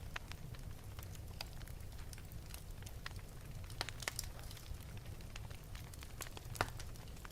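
Wood fire burning in an open fireplace: irregular crackles and pops over a low steady rumble of the flames, with a louder pop about four seconds in and the loudest near the end.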